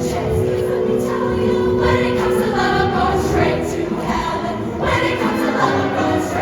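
Show choir singing with a live backing band: held choral chords over a steady rhythmic accompaniment.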